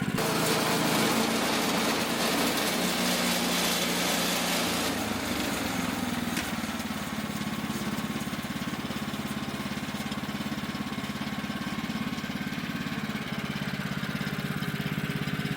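Gas engine of a Woodland Mills HM130 Max portable bandsaw mill running steadily under way, with its note shifting lower and slightly quieter about five seconds in.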